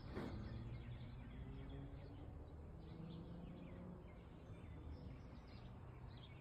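Quiet outdoor ambience: faint bird chirps here and there over a low steady hum.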